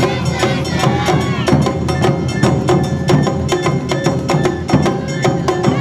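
Awa Odori festival band music: drums and a quick, even stream of sharp percussion strikes under a melody of held notes, typical of the bamboo flute.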